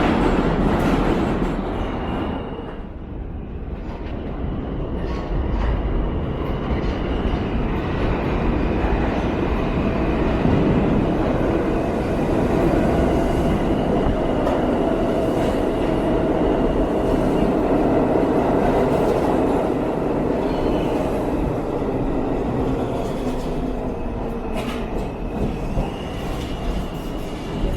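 New York City subway train running on the rails: a continuous rumble, with a faint high squeal from the wheels at times.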